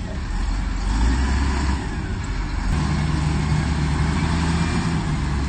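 A heavy earthmoving machine's diesel engine running under work, a loud low rumble whose pitch and load shift a couple of times.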